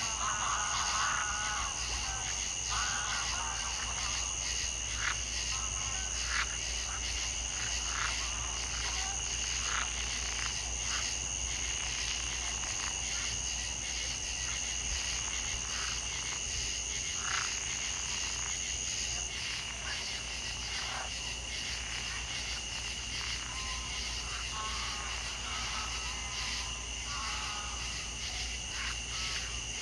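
Nature ambience of frogs calling in short croaks and clusters of notes over a steady high insect trill. A higher, shrill trill drops out about two-thirds of the way through.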